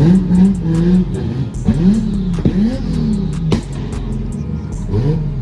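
A car engine revving in repeated blips, its pitch rising and falling about five or six times, with sharp crackles between.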